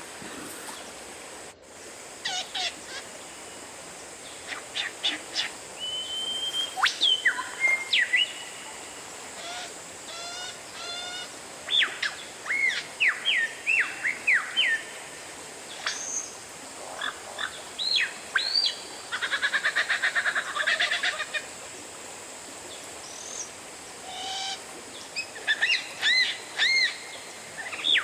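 Oriental magpie-robin (kacer) singing: a varied string of loud whistled notes, many sliding sharply down in pitch, broken by short pauses, with a fast buzzy trill about two-thirds of the way through.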